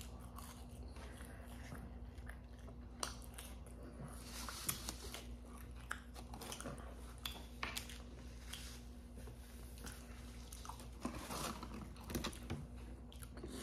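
Close-up sounds of people biting and chewing fast food: french fries, a sandwich and chicken fries, with short irregular mouth clicks.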